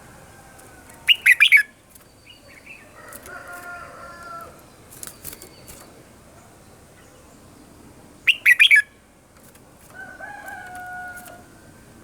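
Red-whiskered bulbul singing: two loud bursts of quick whistled notes, about a second in and again about eight seconds in, with softer, lower warbling phrases between them.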